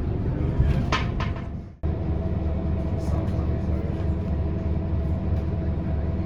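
Scania K230UB city bus running, a steady low drone heard from inside the passenger cabin, with a couple of short clicks about a second in. The sound cuts out abruptly just before two seconds, then the same drone picks up again.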